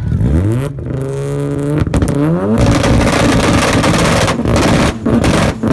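Mazda RX-7's rotary engine revved hard in an exhaust-sound contest: the revs climb, hold, drop off briefly, climb again, then are held at high revs for about three seconds with a couple of quick lifts off the throttle.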